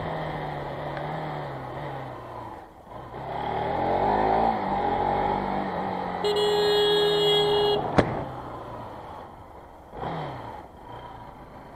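Motorcycle engine easing off, then revving up as it accelerates. A horn sounds steadily for about a second and a half, followed by a single sharp click.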